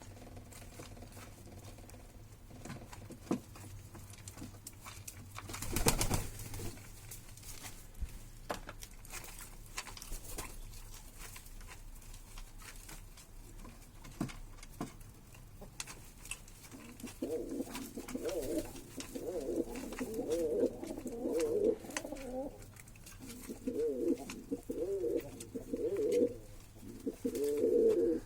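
Pigeons cooing in repeated low, wavering bouts through the second half. Before that come scattered light clicks and taps, and a short loud burst of noise about six seconds in.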